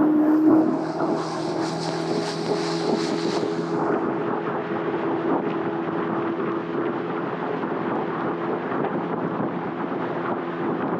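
A river boat's motor running steadily at cruising speed under a rushing wash of noise, with a higher hiss joining in for about three seconds a second in.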